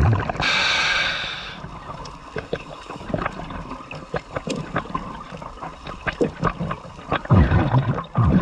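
A scuba diver breathing through a regulator underwater: a hissing inhale about half a second in, then scattered faint clicks and crackles, and a rumbling burst of exhaled bubbles near the end.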